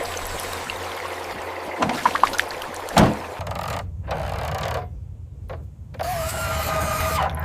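Small electric motors of miniature model construction machines whirring, with a few clicks and a single knock about three seconds in. The sound cuts out abruptly twice, and a steady motor whine starts about six seconds in.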